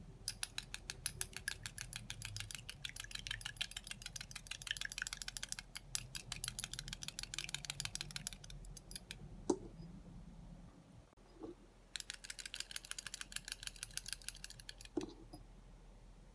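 Fast, light clicking in two long runs, one of about nine seconds and a shorter one near the end, with a few single knocks between.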